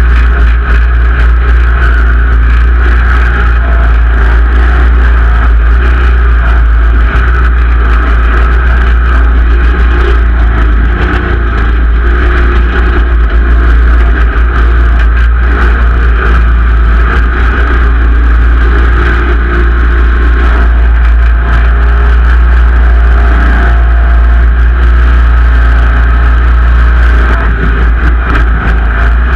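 Simplicity Legacy XL garden tractor's engine running steadily and loud, close to the microphone.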